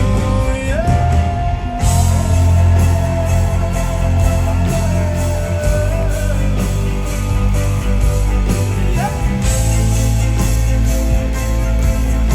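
Live pop band music with a steady drum beat. A long held lead note starts with a slide up about a second in and holds until about six seconds in.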